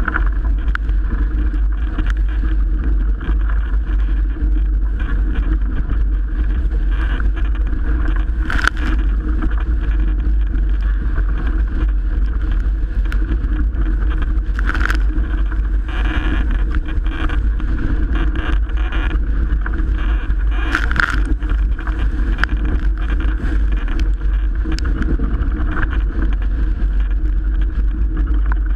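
Strong wind buffeting the microphone over the rush of water along a Melges 24 sailboat's hull in 30-plus-knot wind, with a few sharper hits of spray or wave slap about six seconds apart.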